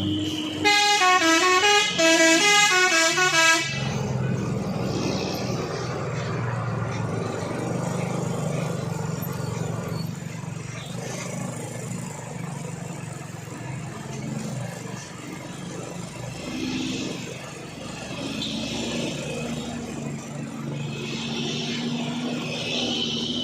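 A truck's multi-tone air horn plays for about three seconds, its pitch stepping up and down in a little melody. Then a heavy truck's engine runs steadily.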